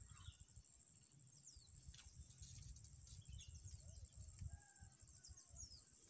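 Faint, short, thin bird chirps that slide downward in pitch, a few scattered through, over a steady high-pitched whine and a low wind-like rumble.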